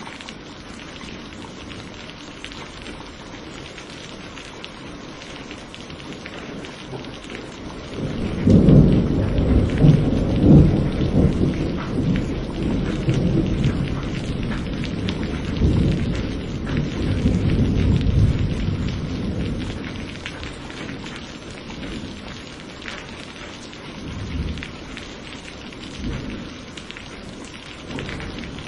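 Steady rain falling, with a roll of thunder that breaks in suddenly about a third of the way through, rumbles loudly for several seconds, and slowly dies away; a few softer rumbles follow near the end.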